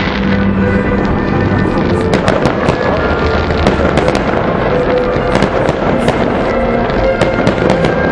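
Aerial fireworks display going off, many irregular sharp bangs and crackles, with music of long held notes playing along.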